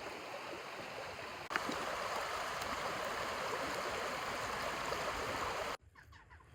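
Rushing river water, a steady noise that gets louder after a cut about 1.5 s in, then stops abruptly near the end, leaving a quiet background with a few faint chirps.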